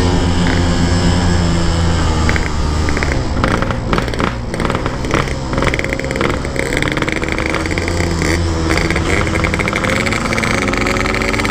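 Motorcycle engine running under way at low, shifting revs, with short knocks and rattles as the bike rides over a rough, potholed road.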